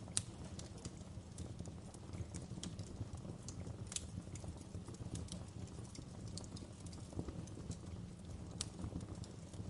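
Wood fire crackling in a fireplace: irregular sharp pops and snaps over a steady low rumble of flames, the loudest pop just after the start.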